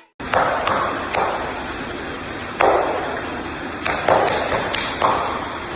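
A series of sharp knocks or taps at uneven intervals, about eight to ten in all, over a steady background hiss.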